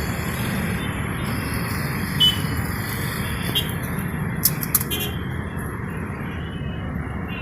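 Steady roadside traffic rumble, with a few short sharp clicks over it: the loudest about two seconds in, then a close pair a little past halfway.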